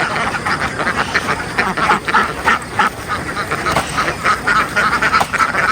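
A large flock of domestic ducks quacking continuously, with many short calls overlapping into a dense, steady chorus.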